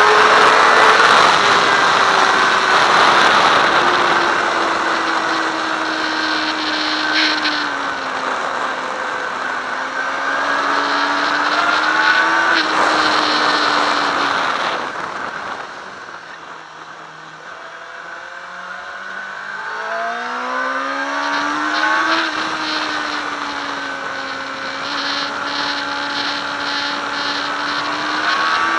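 Sport motorcycle engine at speed on a race track, heard from an onboard camera with heavy wind rush. Its pitch rises and falls with the throttle and gear changes; a little past halfway it shuts off and goes much quieter through a few stepped downshifts, then builds again as the bike accelerates out.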